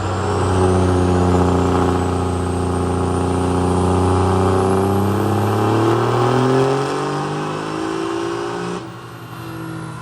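Single-turbo diesel pickup making a full-throttle pull on a chassis dyno. The engine note climbs steadily with a rising turbo whistle above it, then the throttle is let off about nine seconds in and engine and whistle wind down.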